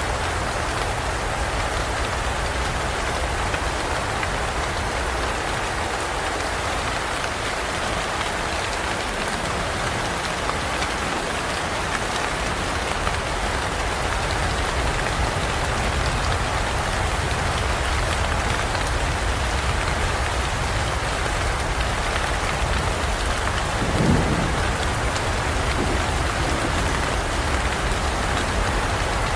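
Steady heavy rain falling on forest foliage, with low thunder rumbling underneath and a short louder thump about 24 seconds in.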